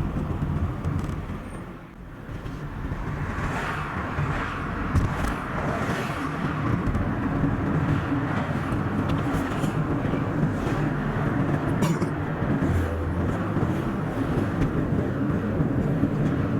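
Car interior and road noise while driving, a steady rumble of tyres and engine sped up to double speed. It drops away briefly about two seconds in, then comes back and holds steady.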